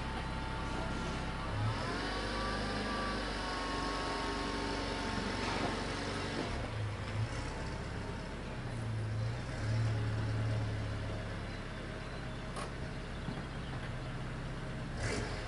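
Renault Mégane 3 RS's 2.0-litre turbocharged four-cylinder engine running at idle, a steady low hum.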